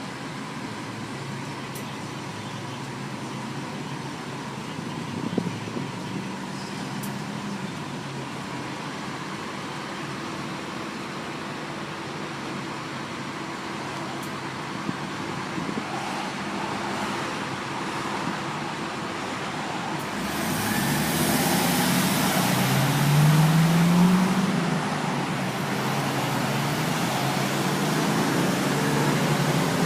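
Truck engine running steadily, then growing louder about two-thirds of the way through, its engine note rising as it revs and pulls.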